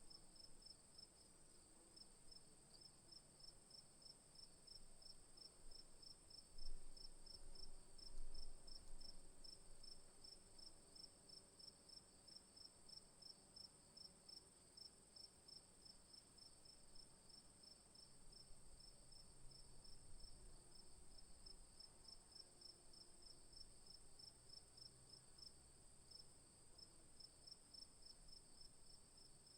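Insects chirring faintly: a steady high buzz over a quick, evenly repeated chirping pulse that never stops. Two brief louder low sounds come about seven and eight seconds in.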